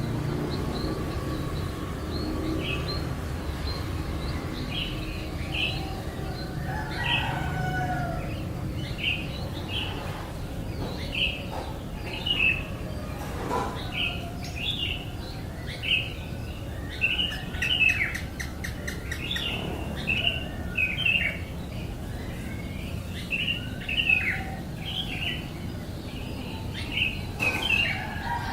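A bird chirping over and over in short high chirps, about one to two a second, coming thicker in the second half, over a steady low background rumble.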